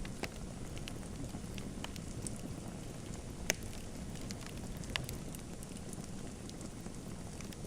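Wood fire in a fireplace burning with a steady low rush and scattered sharp crackles and pops, the loudest pop about three and a half seconds in.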